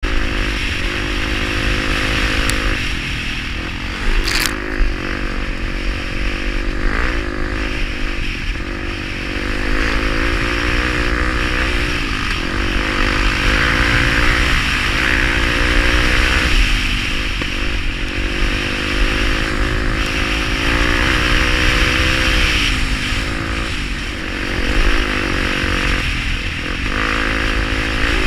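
Honda XR250 Tornado's single-cylinder four-stroke engine running hard off-road, its revs repeatedly rising and falling through gear changes. A sharp knock sounds about four seconds in.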